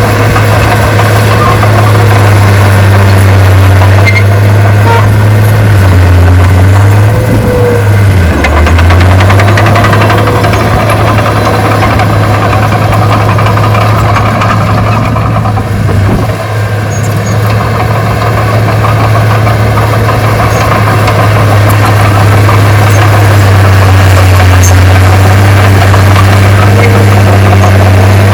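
Heavy earthmoving machine's diesel engine running steadily and loud, its pitch dipping and wavering briefly about six to nine seconds in.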